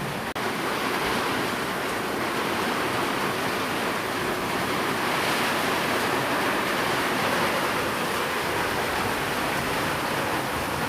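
Steady, even hiss of heavy rain, blended with white noise, with a brief dropout a fraction of a second in.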